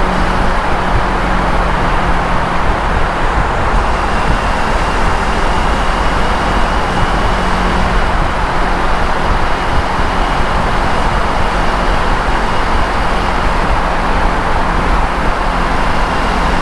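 Motorcycle running steadily at highway speed, heavy wind rush over the microphone with the engine's steady hum beneath it.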